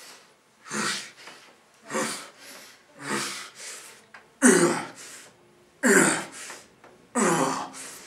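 A man breathing hard and forcefully in a steady rhythm while exercising. About every second and a quarter comes a loud, harsh exhale followed by a softer breath, and the breaths get louder about halfway through.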